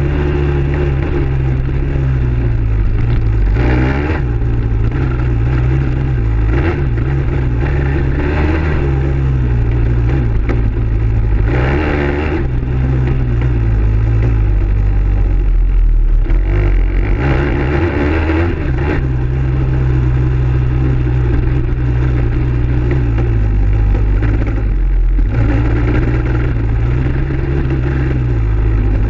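Dirt bike engine running hard, its pitch rising and falling every few seconds as the throttle is opened and closed and the gears change.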